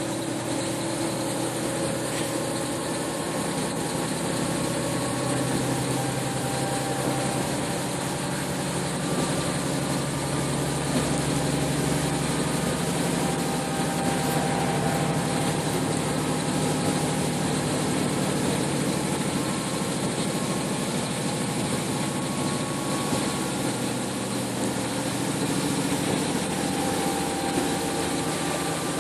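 Bus engine running steadily, heard from inside the cabin, with a low hum and road or cabin noise.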